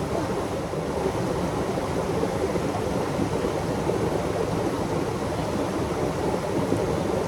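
Loud, steady rush of flowing creek water.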